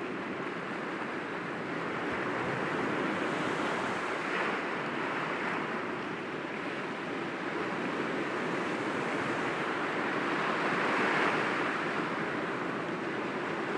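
Sea waves breaking gently against rocks, a continuous wash that swells and eases, with a fuller surge about eleven seconds in.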